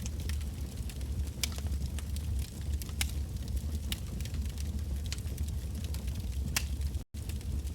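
Wood bonfire burning: irregular sharp crackles and pops from the burning logs over a steady low rumble of flame. The sound cuts out for an instant near the end.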